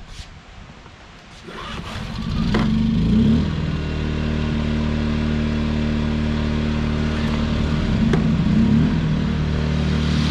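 Champion inverter generator starting up about two seconds in, then running steadily, with a brief surge in speed near the eight-second mark; running loud.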